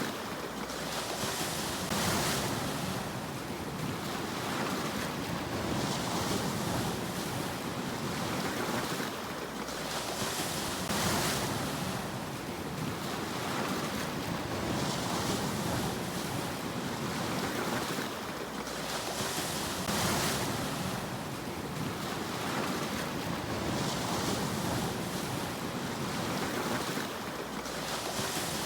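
Sea waves washing ashore, the surf swelling and fading every few seconds in a steady rhythm, with a bigger surge about every nine seconds.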